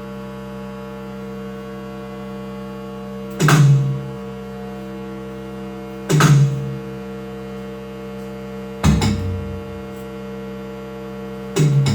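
Electronic music: a steady synthesized drone of several held tones, struck by a percussive electronic drum hit about every three seconds, four hits in all. The last two hits are deeper than the first two.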